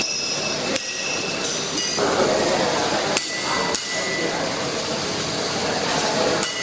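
Hammer striking steel: about six sharp, ringing metallic clinks at irregular intervals over steady workshop background noise.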